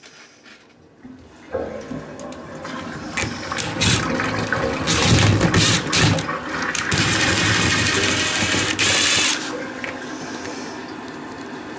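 A toilet flushing: water rushes and builds over several seconds, with louder surges in the middle, then eases to a steadier run near the end as the flow settles.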